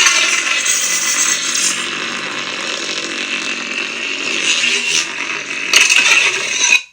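Lightsaber sound font playing through a saber's sound board: a continuous buzzing hum that swells several times as the blade is swung, then cuts off abruptly near the end.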